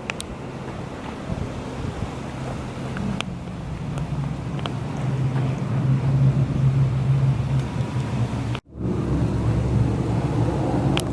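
A car engine running steadily, growing louder for several seconds. About three-quarters of the way through, the sound cuts out for an instant and then resumes.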